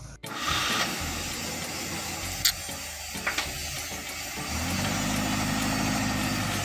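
Daihatsu Taft F10's petrol engine idling steadily, with a deeper, stronger steady tone coming in about four and a half seconds in. Two short sharp sounds stand out about halfway through.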